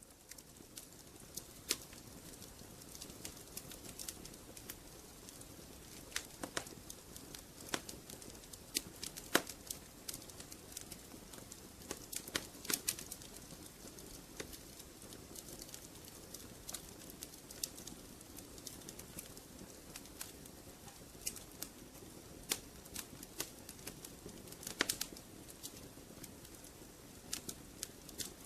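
Wood fire crackling in a fireplace: irregular sharp pops and snaps over a steady low hiss of the flames.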